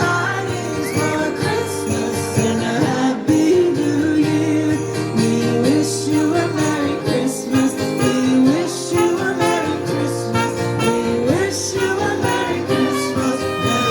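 Live band playing a Christmas song, with jingle bells shaking steadily over strummed guitar and a steady bass line.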